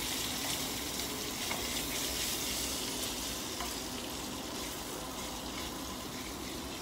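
Bacon and mushrooms sizzling steadily in a crowded frying pan as they are stirred, with a few faint scrapes of the utensil against the pan.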